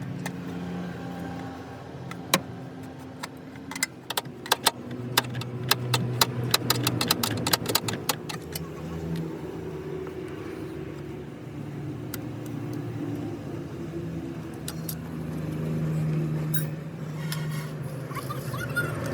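An engine running steadily, with a quick run of sharp metallic clicks and clinks between about four and nine seconds in.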